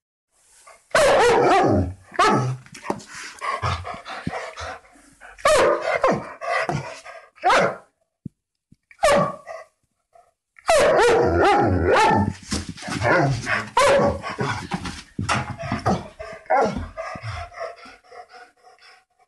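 Dogs barking repeatedly in loud, rapid runs of barks. The sound drops out briefly around the one-second mark and again for about two seconds near the middle, then the barking resumes.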